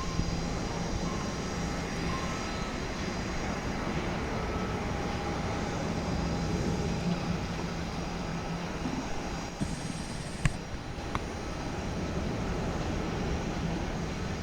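Jet engines of a Boeing 777-200ER, GE90 turbofans, running as a steady rumble with faint high tones. A sharp click comes about ten seconds in, with a fainter one just after.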